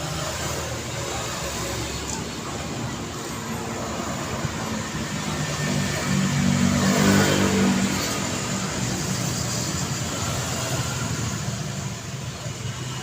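Steady road traffic noise, with one vehicle passing close about halfway through, its engine the loudest thing heard, rising and then falling away.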